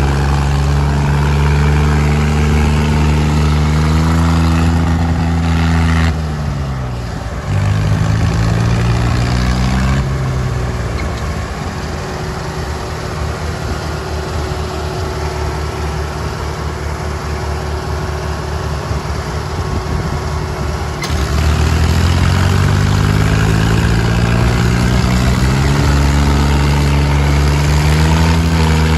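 Diesel tractor engines working hard under load in a tug-of-war pull. The engine note sags about five seconds in, runs lower and rougher through the middle, and climbs again after about twenty-two seconds.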